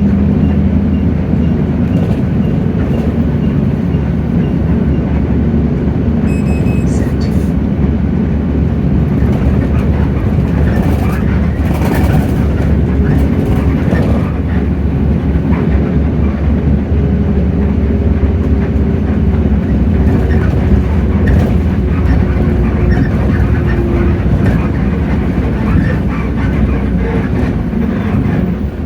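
Hino J08E six-cylinder diesel engine of a Hino RK8JRVA city bus running under way, heard from inside the cabin with road rumble and body rattles. A brief high tone sounds about six seconds in.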